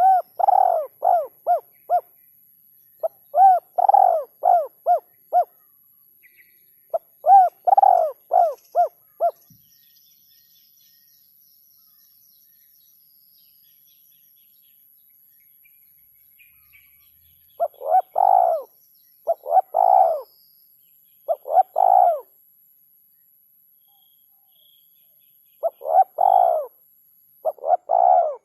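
Male spotted dove (tekukur) cooing: phrases of several short coos, each rising and falling in pitch, in bursts of two or three seconds with short pauses between, and a longer pause of about eight seconds near the middle.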